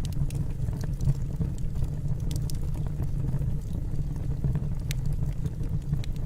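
Wood fire burning in a fireplace: a steady low rumble of flames with scattered sharp crackles and pops from the burning logs, one of the clearest about five seconds in.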